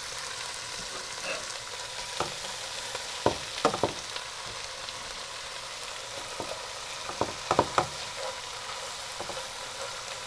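Chicken pieces browning in a pan of hot oil with sautéed onion: a steady sizzle, with a few sharp clicks of a utensil or pieces against the pan in two clusters, about a third of the way in and again about three quarters in.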